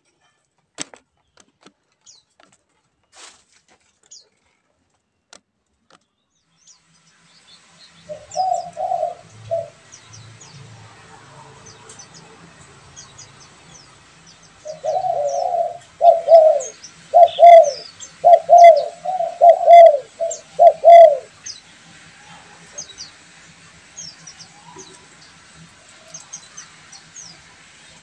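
Spotted doves cooing. A short cooing phrase comes about eight seconds in, then a longer run of repeated coos from about fifteen to twenty-one seconds. Small birds chirp high and faint in the background. The first several seconds are mostly quiet, with a few faint clicks.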